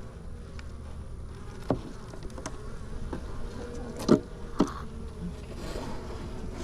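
Honey bees buzzing steadily around an open hive, with a few short sharp knocks, the loudest about four seconds in.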